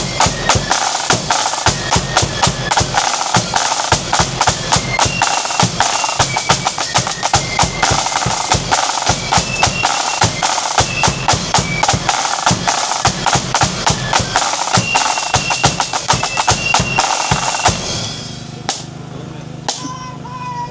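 Marching band playing: rapid snare-drum rolls and bass-drum beats under short, high melody notes from flutes. The band stops about 18 seconds in.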